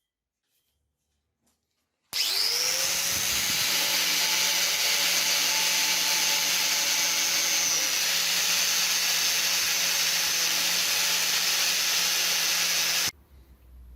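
An electric power tool starts about two seconds in, its motor winding up with a briefly rising whine, then runs steadily with a loud hissing, grinding noise. It stops abruptly about a second before the end.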